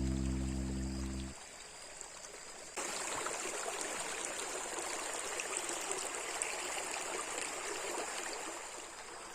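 Flowing stream water, a steady rushing trickle that starts abruptly about three seconds in and runs on. Before it, instrumental music ends about a second in.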